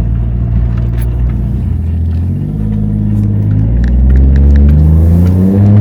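1JZ inline-six engine of a swapped MK3 Supra under way: steady for about two seconds, then rising in pitch as the car accelerates, with a drop near the end as it shifts up a gear.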